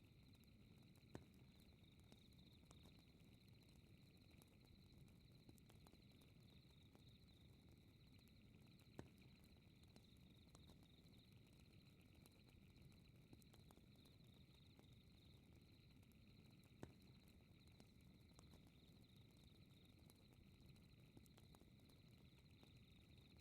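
Faint crackling fireplace, a low steady fire sound with sharp pops about a second, nine seconds and seventeen seconds in, over a steady high chirring of night insects such as crickets.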